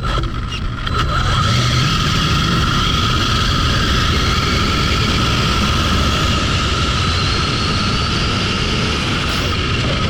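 High-speed RC car, a Hobao Hyper GT, heard from on board at speed: a steady high whine from its electric drive over loud wind and tyre roar.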